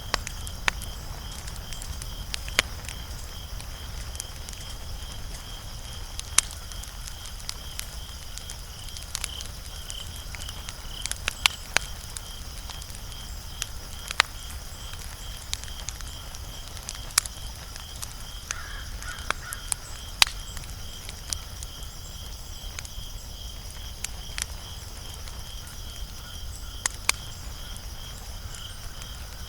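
Wood fire crackling: sharp, irregular pops and snaps over a steady low rumble. A high, steady insect chirping, like crickets, runs underneath.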